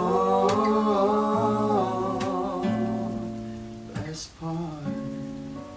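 Acoustic guitar strumming chords, with a male voice holding a long wavering note through the first two seconds or so; several sharp strum strokes stand out.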